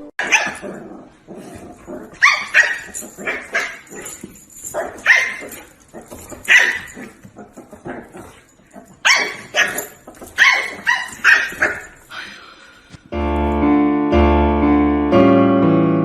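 A dog barking over and over in short, separate barks. Music starts about three seconds before the end.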